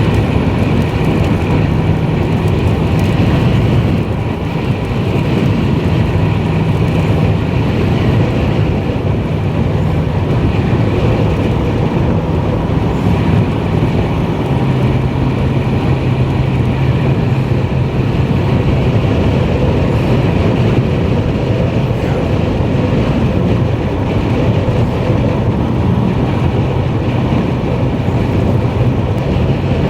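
Car driving, with steady road and engine noise and a low hum.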